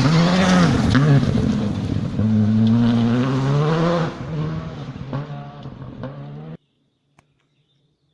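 Rally car at full throttle passing close by, its engine revving up and dropping back several times through gear changes, then fading away. The sound cuts off abruptly about six and a half seconds in.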